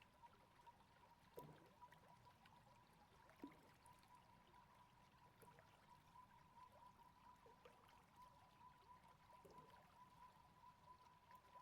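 Faint river water flowing quietly, with a few soft drops about one and a half and three and a half seconds in, under a faint steady high tone.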